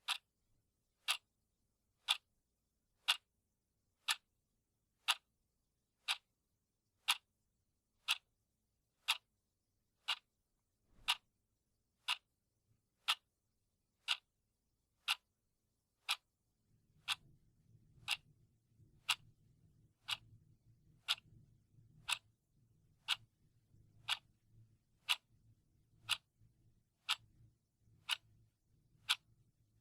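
Clock ticking steadily, one sharp tick each second. A faint low hum comes in about halfway through, under the ticks.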